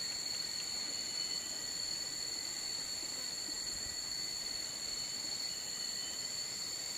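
Tropical rainforest insect chorus: several steady, high-pitched drones at different pitches, unbroken throughout.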